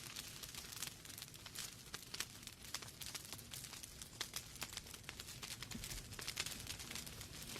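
Wood fire burning in a fireplace: logs crackling with irregular sharp pops and snaps, several a second, over a low steady rumble of the flames.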